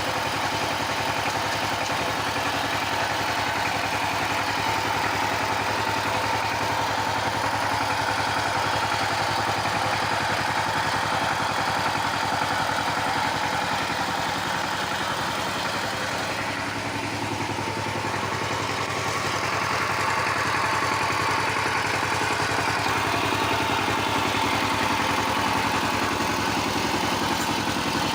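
Power tiller engine running steadily with an even firing rhythm.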